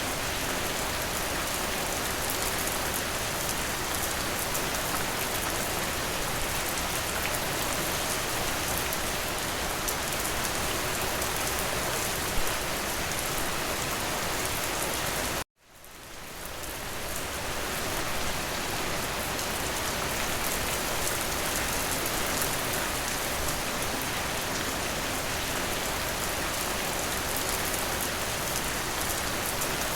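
Steady rain falling against a window, an even hiss of many drops. About halfway through the sound cuts out abruptly to silence and then fades back in over a couple of seconds.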